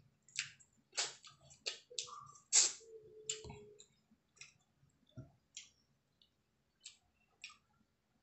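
Close-up mouth sounds of biting and chewing a slice of watermelon: a quick run of sharp bites and chewing clicks in the first few seconds, then sparser, fainter mouth clicks.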